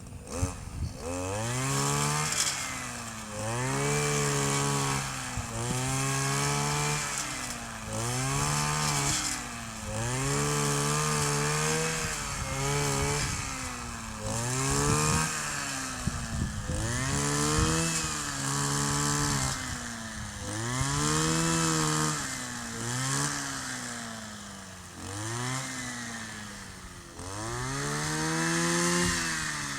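Kioritz 260 brush cutter's small two-stroke engine being revved over and over. About every two seconds it climbs to high revs, holds briefly and drops back toward idle.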